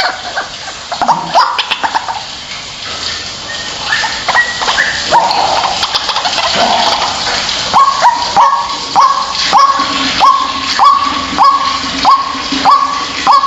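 White-breasted waterhen calling: irregular harsh notes at first, then, about eight seconds in, a steady run of loud repeated calls, a little under two a second.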